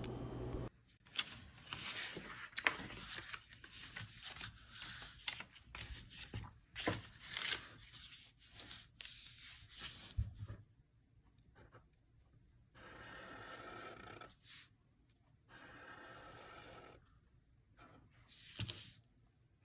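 Sketchbook paper being handled and drawn on: faint scratchy rubbing with small clicks in the first half, then two longer steady strokes across the paper and a sharp tap near the end.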